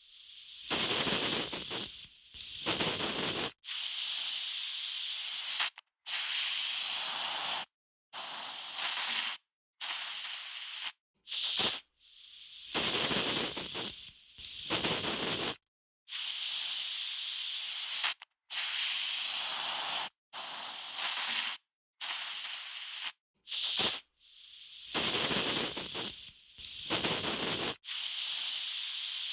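Aerosol spray can spraying in a run of separate short bursts of hiss, each lasting one to two seconds, with brief silent gaps between them.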